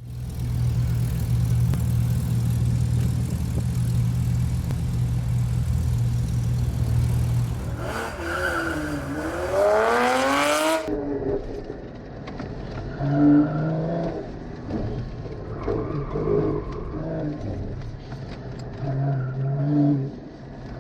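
Porsche GT4's flat-six engine, holding a steady note for several seconds, then revs dropping and climbing sharply again. After that it runs at varying revs through shifts and short bursts of throttle.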